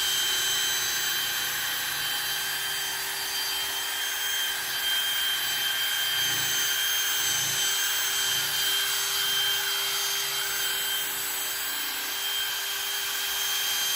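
Ryobi brushless drill, on its second speed setting, spinning a buffing pad over a plastic headlight lens during polishing: a steady motor whine over the rubbing hiss of the pad, even throughout.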